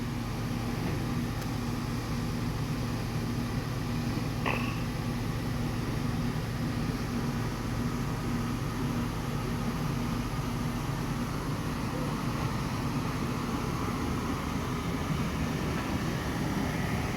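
Steady low mechanical hum of a cargo ship's onboard machinery heard inside the accommodation, with a faint steady low tone running through it. A brief faint click about four and a half seconds in.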